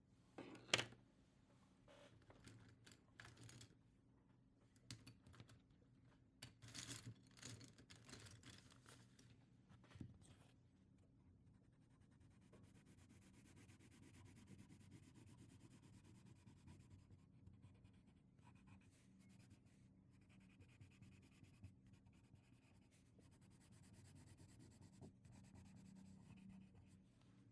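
Faint pen strokes on paper: scattered taps and short scratches, the sharpest about a second in, then a long stretch of steady scratching, as of shading or colouring in.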